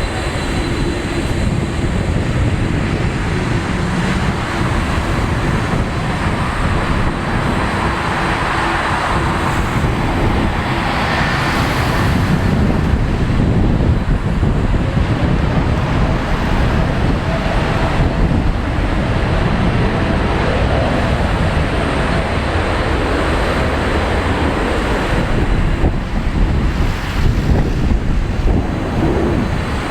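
Boeing 787-9 jet engines at takeoff thrust during the takeoff roll and climb-out: a loud, steady noise of engine and jet blast that grows a little louder about twelve seconds in.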